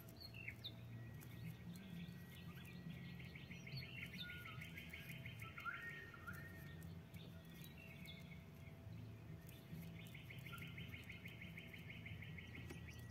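A bird chirping faintly: two trills of rapid, evenly repeated high chirps, each about three seconds long, one a few seconds in and one near the end, with a few single chirps between.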